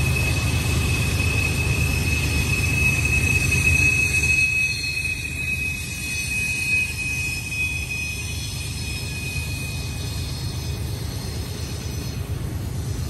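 Union Pacific manifest freight cars rolling past, with a steady low rumble of wheels on rail. Over it runs a thin, steady high-pitched wheel squeal that fades out about ten seconds in.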